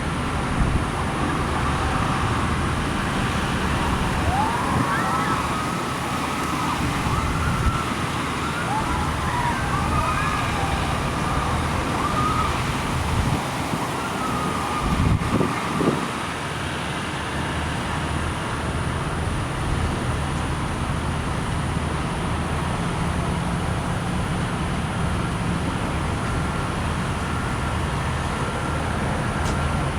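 A steady low engine or traffic drone, with wavering high gliding tones like a distant siren over roughly the first half.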